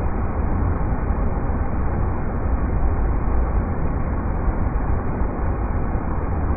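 River rapids rushing: a steady, deep, even wash of water noise.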